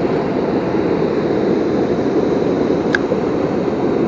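Steady rushing roar of a river waterfall, with one short sharp click about three seconds in.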